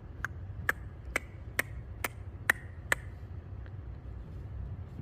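Seven sharp taps, evenly spaced about two a second, stopping about three seconds in.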